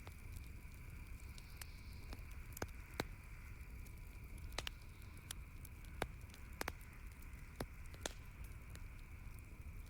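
Campfire crackling, with sharp irregular pops about once a second over a steady low rumble of the burning fire.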